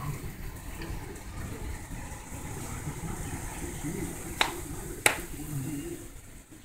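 Steady hiss of a heavy rain downpour, with two sharp clicks about four and a half and five seconds in.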